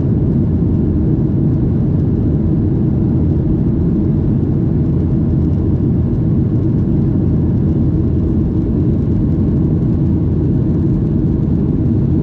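Steady low rumble of an aircraft's engines and airflow, heard from on board during the climb after take-off.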